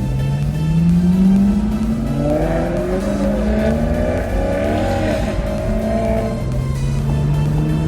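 Car engines accelerating, their pitch rising, then several engine notes overlapping, rising and falling in the middle, and one climbing again near the end.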